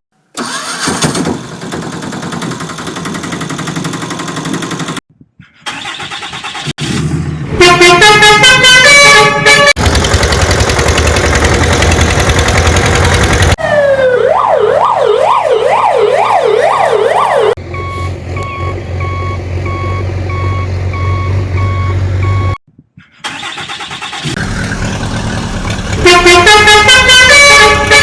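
A string of vehicle sound effects: engine noise, a melodic multi-note horn that comes twice, a siren rising and falling about twice a second, and a steady repeated beep.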